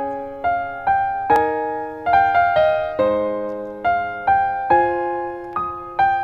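Background music: a piano melody of struck notes that fade away, roughly two notes a second.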